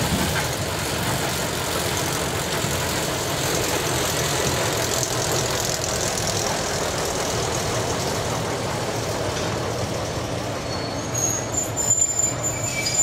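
Train with small diesel locomotives rolling past on the rails, a steady rumble of engines and wheels. A thin high wheel squeal comes in near the end.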